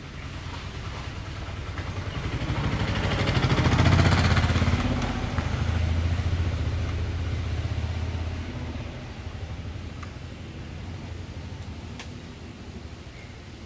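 A motor vehicle passing by, its engine growing louder to a peak about four seconds in and then fading away.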